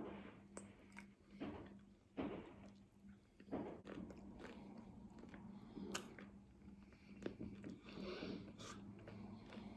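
Close-up mouth sounds of someone eating a hard-shell taco: several sharp, crunchy bites in the first few seconds, then softer, wetter chewing.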